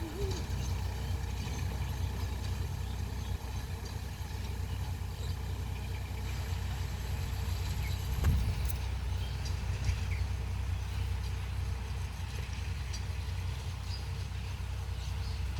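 Sonalika tractor's diesel engine running steadily, low-pitched, with a short knock about eight seconds in.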